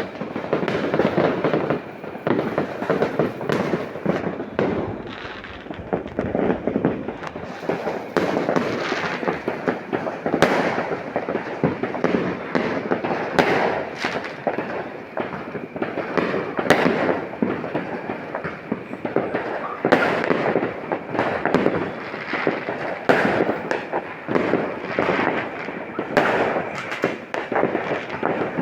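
New Year fireworks and firecrackers going off without pause: a dense crackle of many overlapping bangs and pops.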